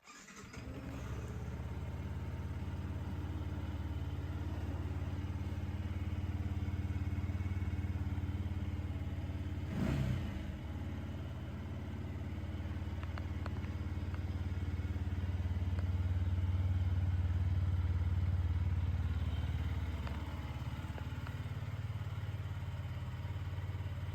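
Yamaha MT-125's single-cylinder 125 cc four-stroke engine starting up and idling steadily, with one short blip of the throttle about ten seconds in.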